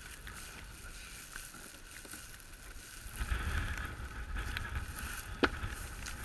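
Wind rumbling on the microphone, growing stronger about three seconds in, with a few light knocks and one sharper click near the end.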